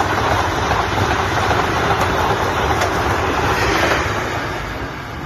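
Passenger train passing at speed close by: a loud, steady rush of wheels on the rails that drops off after about four seconds as the end of the train goes by.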